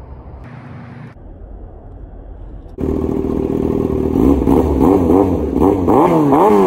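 Motorcycle engine, first a low rumble, then about three seconds in it cuts in loud and is revved up and down repeatedly, its pitch rising and falling with each blip of the throttle.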